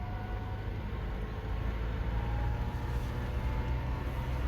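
Toyota Tacoma pickup driving along slowly, heard from inside the cab as a steady low rumble of engine and road noise.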